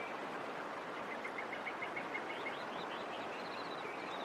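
Rainforest ambience: a steady hiss with birds chirping over it. A quick run of about eight short, even notes comes about a second in, followed by higher rising and falling chirps.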